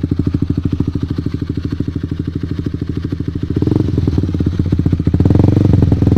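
Honda CB150R's single-cylinder engine through a Pro Liner TR-1 carbon long-can aftermarket exhaust, idling with a steady, even pulse. The revs are raised about three and a half seconds in and again, louder, near the end.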